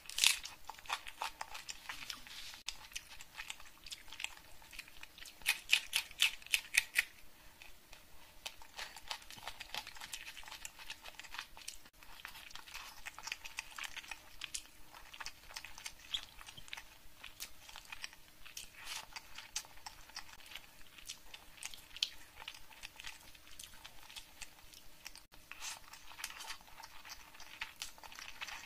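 Close-miked eating: crisp crunching and chewing of raw onion and food, loudest just after the start and again around six seconds in, with softer wet chewing and mouth sounds between.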